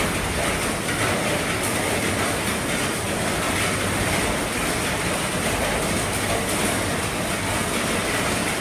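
Heavy rain drumming on an RV's roof: a steady, dense patter of drops with no let-up.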